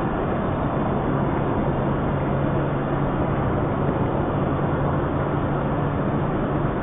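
Steady running noise of a moving car, engine and tyres on the road, with a low steady hum underneath and no impact.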